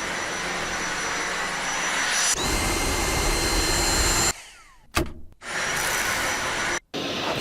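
Dyson V8 cordless stick vacuum running with a steady motor noise and a high whine, in short clips with sudden cuts between them. A little after four seconds the motor winds down with a falling whine.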